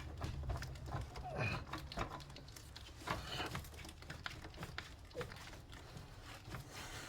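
Scattered light clicks and taps of a spanner working loose a car battery terminal clamp, with a low hum that fades out about a second in.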